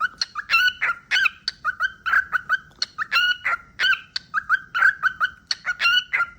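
Cockatiel whistling: a fast string of short, clear chirping notes repeated at much the same pitch, broken every second or two by louder, sharper chirps.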